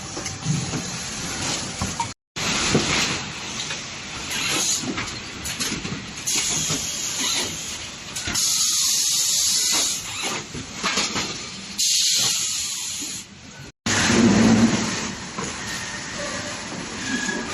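Factory noise from a washing machine assembly line: machinery clatter with long bursts of hissing air, broken by two abrupt cuts to silence.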